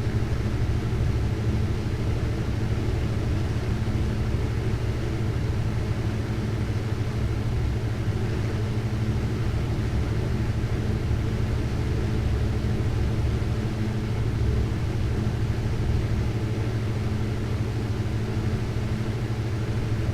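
Glassblowing torch flame burning steadily at the bench: a continuous low rumble with a steady hum.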